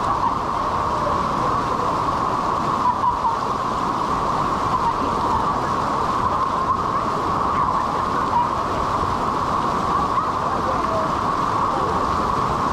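Steady rush of whitewater pouring through a river rapid, loud and unbroken.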